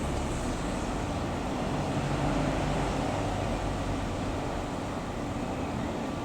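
Bell 505 Jet Ranger X helicopter flying over in the distance, a steady rumble that swells a little about two to three seconds in, mixed with outdoor noise.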